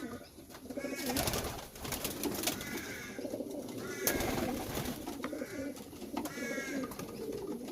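Pigeons cooing steadily, with short, higher calls every few seconds and scattered clicks and rustles.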